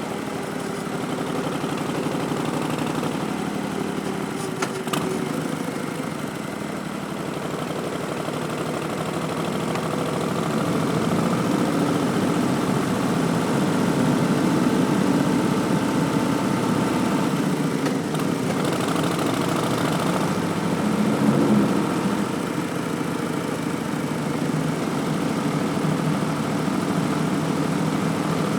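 Harley-Davidson 2019 Street Bob's Milwaukee-Eight 107 V-twin running through Vance & Hines Twin Slash slip-on mufflers, with an Arlen Ness Big Sucker intake. The engine note grows louder about ten seconds in and swells briefly a little past twenty seconds.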